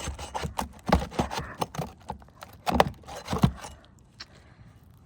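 Scraping and a run of sharp knocks and clicks from a tool being worked under asphalt roof shingles to loosen and pull their nails. The sounds die down near the end.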